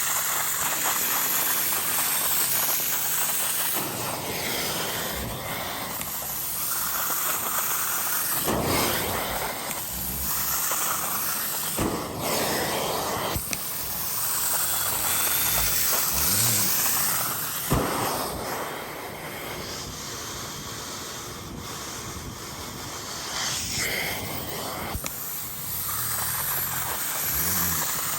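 Hot-water extraction upholstery cleaner at work: the hand tool spraying and sucking with a continuous hissing rush over a steady high whine from the vacuum motor. The rush swells and dips as the tool is worked.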